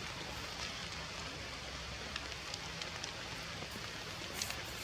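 Steady rain falling, an even hiss broken by scattered sharper drop ticks.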